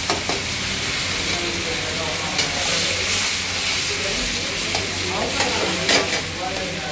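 Butter chicken in tomato gravy sizzling in a karahi over a high gas flame. It is stirred with a long metal spatula that clinks and scrapes sharply against the pan a few times.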